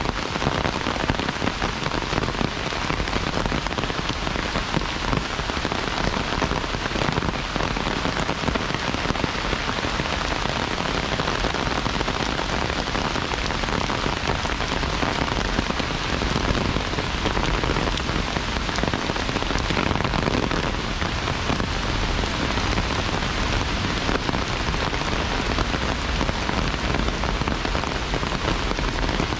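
Heavy rain falling steadily: a dense, even hiss of rain with many small drop hits close to the microphone.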